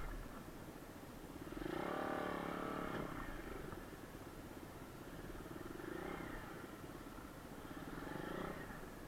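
Kayo pit bike's single-cylinder engine running on the move. It revs up hard about two seconds in, eases off, then opens up again twice near the end.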